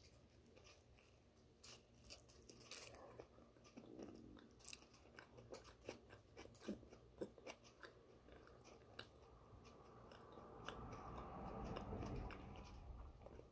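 Close-up biting and chewing of a poppy-seed bagel topped with chickpea salad: a bite taken at the start, then faint chewing with many small mouth clicks, swelling a little louder near the end.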